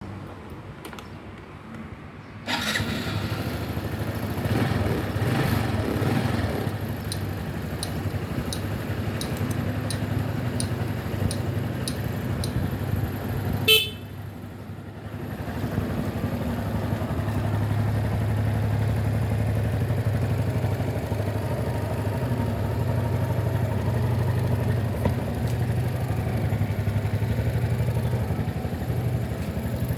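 Honda Super Cub 110's single-cylinder four-stroke engine starting about two seconds in and running. About halfway through there is a short sharp sound, after which the engine note dips and then settles into a steady idle.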